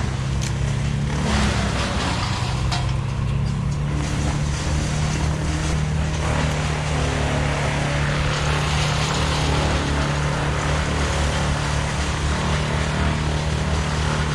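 A heavy truck-mounted crane engine running at a steady speed, a constant low hum with hiss above it. A few light clicks come in the first few seconds.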